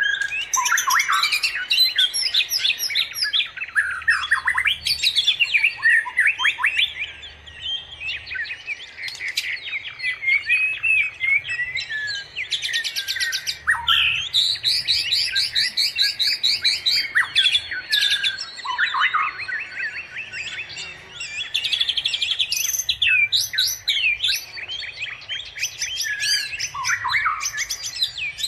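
A dense chorus of songbirds: many overlapping chirps, whistles and quick trills without a pause.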